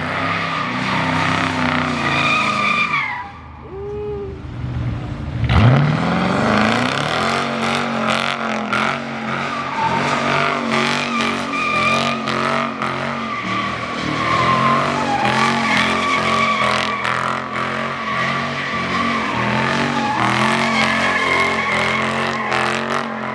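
Car doing a burnout: the engine held at high revs with the tires squealing against the pavement. A few seconds in the engine drops off briefly, then revs up sharply, loudest there, and stays high with the tires spinning.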